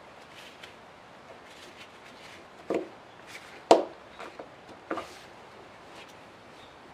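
Three sharp knocks about a second apart, the middle one the loudest, with a few light clicks between: parts or tools being knocked during work on a car's drive shaft.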